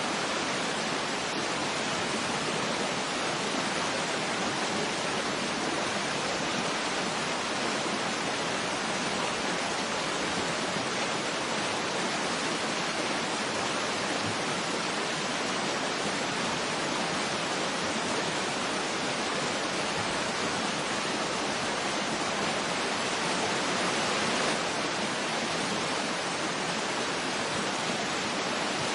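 Waterfall ambience: a steady, even rush of falling water with little deep rumble, swelling slightly a little over twenty seconds in.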